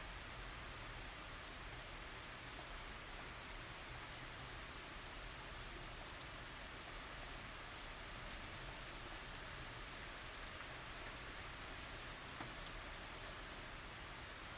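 Steady tropical rain falling, an even hiss with fine scattered drop ticks, no thunder.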